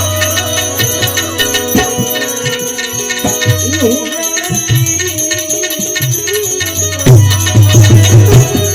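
Instrumental Gujarati devotional folk music with a fast jingling rattle beat over drums. The heavy low drum strokes drop away for a few seconds, leaving lighter percussion and a melody line, and come back strongly about seven seconds in.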